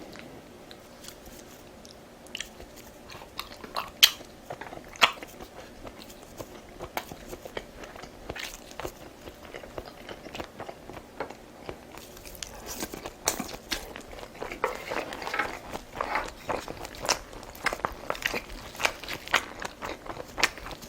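A person biting and chewing food, with wet crunches and short clicks. The sounds are sparse at first, with two sharp louder clicks about four and five seconds in, then become steadier and denser from about halfway through.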